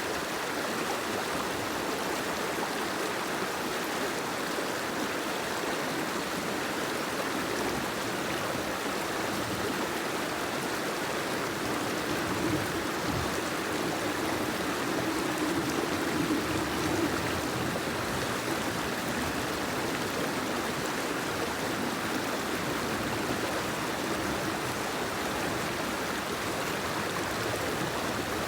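Steady rushing of water, swelling a little about halfway through.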